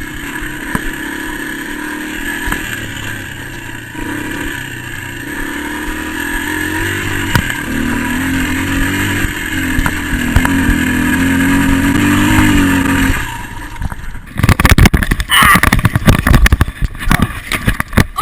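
Honda XR80's small single-cylinder four-stroke engine revving hard under load up a climb, its pitch wavering and rising. About thirteen seconds in the engine note drops away, and a run of loud, irregular knocks and scraping follows as the bike goes down.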